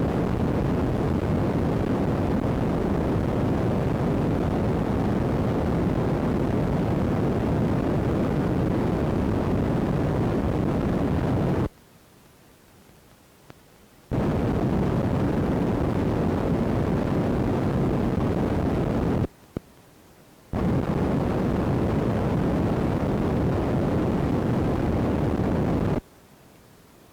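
Loud static noise from an iPod's broken built-in microphone, with no storm sound in it. It cuts out abruptly to a faint hiss three times: for about two seconds near the middle, briefly a little later, and again near the end.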